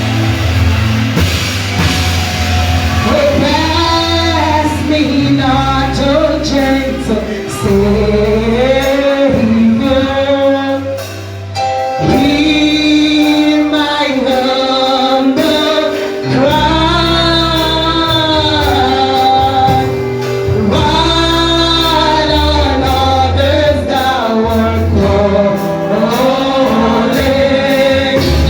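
Gospel worship music: voices singing a slow, sustained melody over an instrumental backing with held bass notes.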